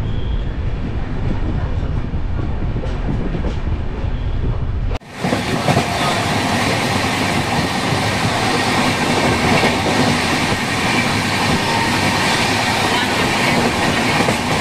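Running noise of the moving Howrah–Darbhanga Express heard from on board: a low rumble of the train on the rails, which about five seconds in cuts abruptly to a brighter, hissing rush with the deep rumble gone.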